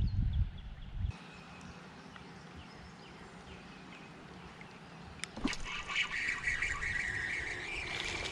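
Low rumbling handling or wind noise, cut off about a second in, then quiet riverside background; from about five seconds in, a sharp click, then birds calling repeatedly with small clicks among the calls.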